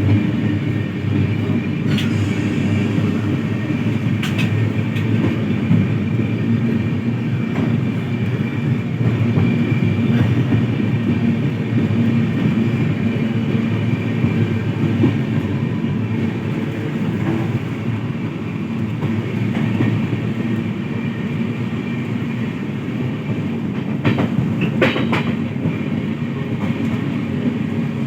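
A moving train running steadily, with a continuous low rumble. A few sharp clicks from the wheels come twice early on and as a quick pair near the end.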